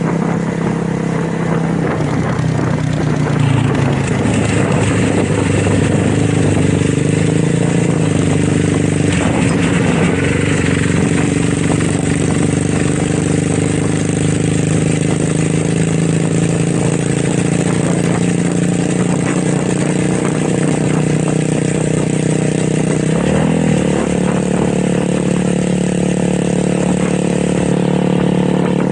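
Motorcycle engine running steadily, its pitch shifting a few times: up a little about three to four seconds in, again around ten seconds, and once more a few seconds before the end.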